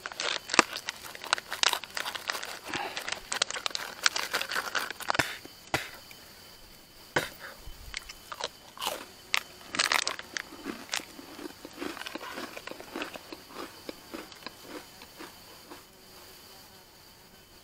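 A biscuit being bitten and chewed close to the microphone: dense crunching for the first six seconds or so, then scattered crunches that die away toward the end.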